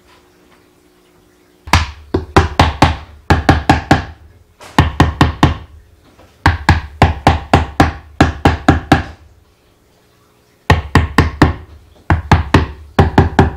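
Hammer striking the wooden box of a beehive, driving its tight tongue-and-groove corner joints together: quick volleys of several sharp blows each, separated by short pauses.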